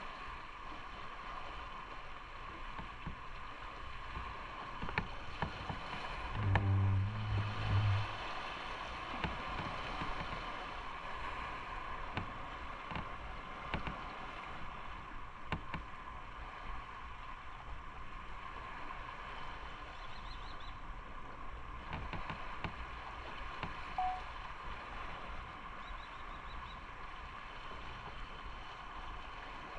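Motorcycle on the move: steady engine and wind noise. About six seconds in, a louder low-pitched sound lasts about a second and a half.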